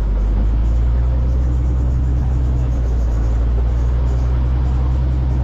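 A vehicle engine running steadily at idle, a low even drone that does not change.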